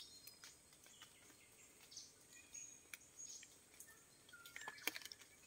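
Faint, scattered forest bird calls: short high chirps and whistles coming now and then over a quiet background, with a few faint ticks.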